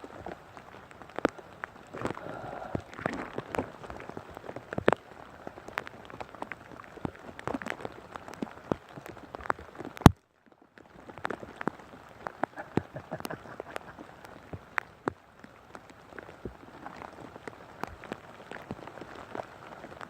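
Rain falling, with many irregular sharp drip taps close by over a steady patter. A loud click comes about halfway through, then a second of near silence before the rain sound resumes.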